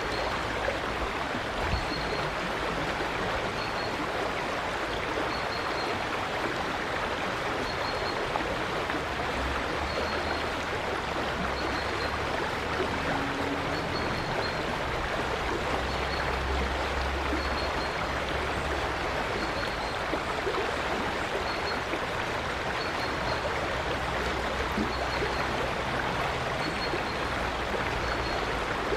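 River water flowing in a steady, even rush, with a faint short high note repeating every second or two and a low rumble coming and going underneath.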